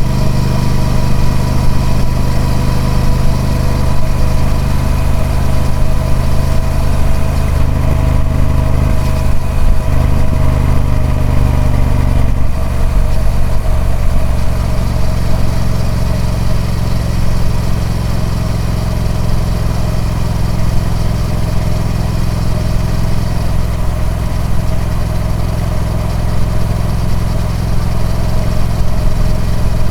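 Triumph Speed Twin 1200's parallel-twin engine running through its stock exhaust at a steady, low engine speed, its note dropping slightly about twelve seconds in and then holding steady.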